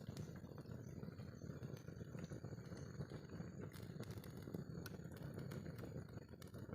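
Pot of gulai curry bubbling over a wood cooking fire: a steady, dense low crackle of many tiny pops.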